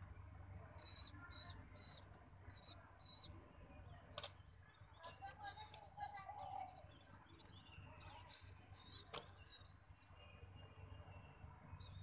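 Faint, high, short chirps from birds, a quick run of them in the first few seconds and more a little past the middle, with two sharp taps, one near a third of the way in and one about three quarters in.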